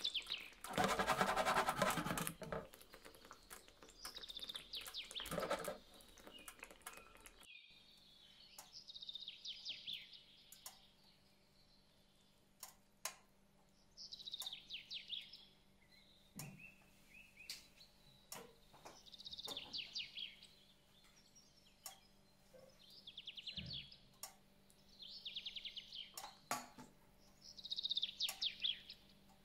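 A small bird chirping in short trilled phrases every few seconds, with a few light clicks between them.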